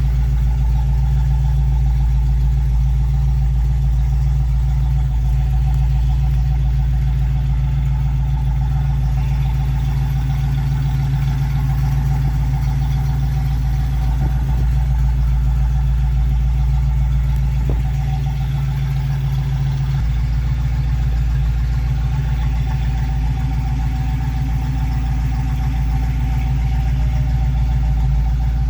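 1968 Ford Mustang's 302 small-block V8, with dual exhaust, idling steadily. Its tone shifts slightly about two-thirds of the way through.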